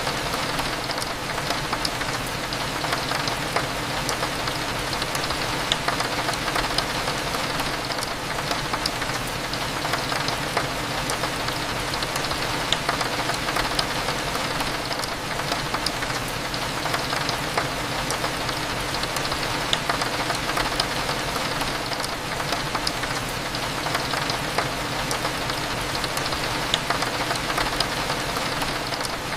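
Steady rain with many small droplet ticks against a window, over a faint low hum.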